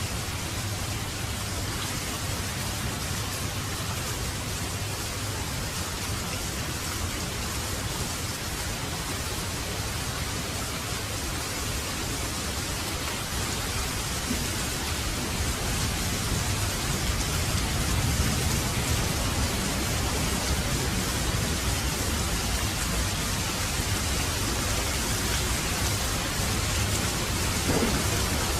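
Heavy rain falling steadily, a dense even hiss, with a low rumble underneath that swells a little past the middle.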